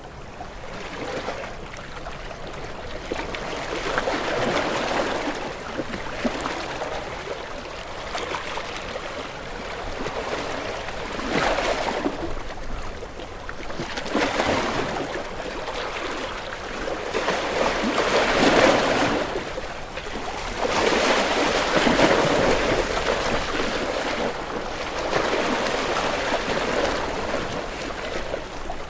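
Ocean waves breaking and washing onto a shore, swelling and falling back every few seconds, the loudest surges about two-thirds of the way through.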